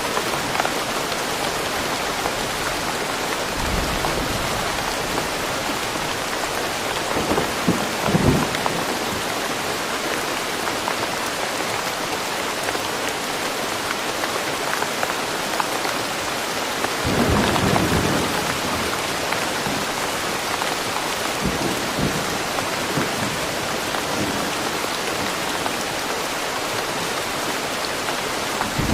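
Steady heavy rain falling in woodland, with low rumbles of thunder rising out of it twice, briefly about eight seconds in and longer just past halfway.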